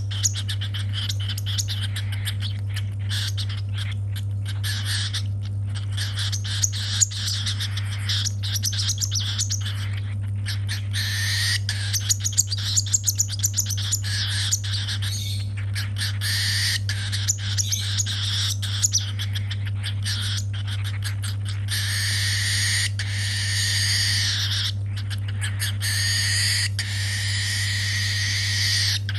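Baby cockatiel's food-begging calls while being hand-fed: rapid, raspy chirping with many quick clicks, louder in stretches, over a steady low hum.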